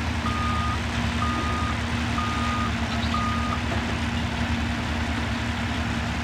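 Heavy diesel machinery engine running steadily while a backup alarm beeps about once a second, four beeps that stop about three and a half seconds in.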